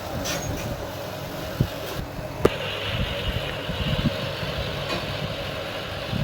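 Electric table fan running with a steady hum; a sharp click sounds about two and a half seconds in, after which a higher hiss joins the hum.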